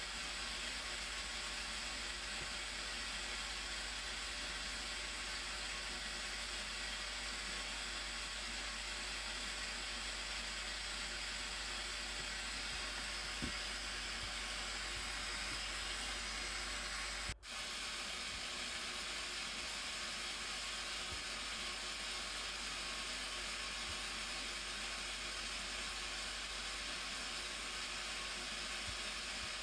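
Steady, even rush of a large waterfall, the Blue Nile Falls, cascading into its gorge. It cuts out for an instant about 17 seconds in.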